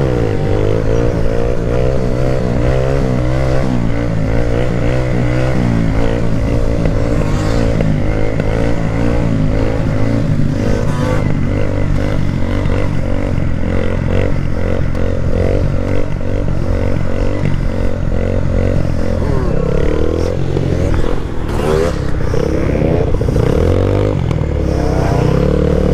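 Motorcycle engine running and revving, its pitch rising and falling over and over.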